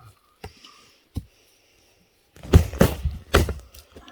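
Firewood being split: sharp wooden knocks and thuds. Two light knocks come first, then a quick run of about four heavy blows about two and a half seconds in.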